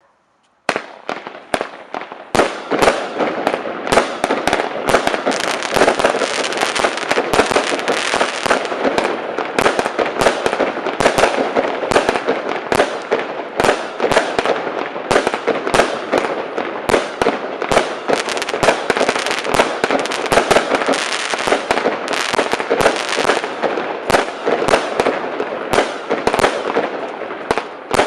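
A 100-shot fireworks cake firing: a fast, unbroken string of sharp shots and bursts, several a second, starting about a second in.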